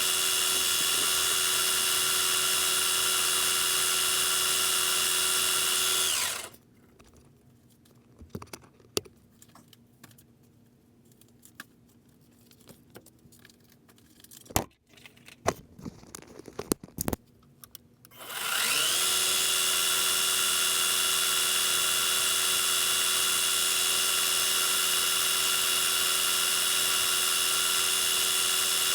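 Metal lathe running with a steady whine, switched off about six seconds in and winding down. Then a quiet stretch with scattered clicks and knocks. About eighteen seconds in it is switched back on, rising in pitch as it spins up and settling into a steady run again.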